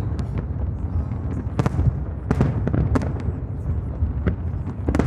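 Fireworks display: a continuous low rumble of aerial shell bursts with many sharp crackling pops, in clusters about one and a half seconds in, between two and three seconds, and again near the end.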